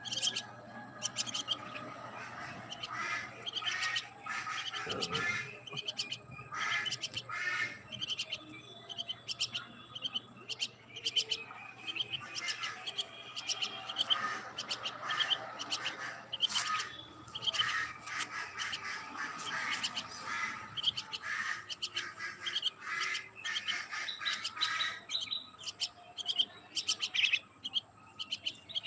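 Birds chirping: a busy run of short, high calls, many overlapping, with the odd harsher squawk.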